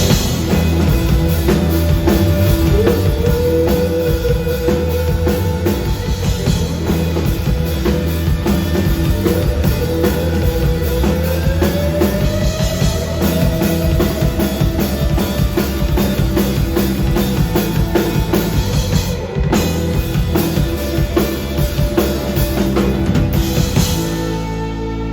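Live rock band playing loudly: a drum kit keeps a steady driving beat under a long, held melody line that climbs in pitch around the middle. Near the end the drums stop and a guitar rings on with echo.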